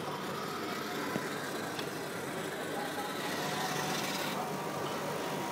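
Gaia fresh-milk coffee machine running its rinse cycle, its pump humming steadily as it draws clean water through the milk pipe. There is a click about a second in, and a hiss from about three seconds in that stops a little after four seconds.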